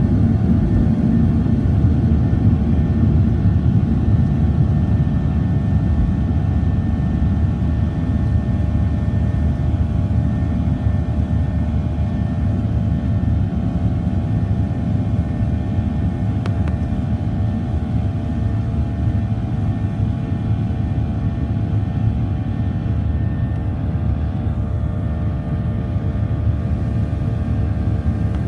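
Cabin noise of a Ryanair Boeing 737-800's twin jet engines running at high power during take-off: a steady deep rumble with several steady whining tones over it, heard from inside the cabin.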